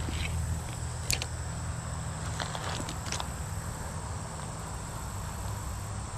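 Steady high-pitched insect drone over a constant low rumble, with a few light clicks and taps scattered through.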